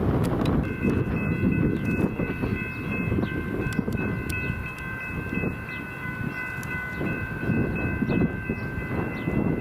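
A train rolling past with a heavy low rumble and scattered clicks from the wheels and rails. From about a second in, a steady high-pitched chord of several held tones sounds without a break.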